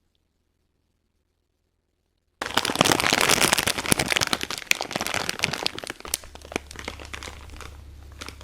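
Dense crinkling and crackling that starts suddenly about two seconds in, loud at first and thinning out after about six seconds.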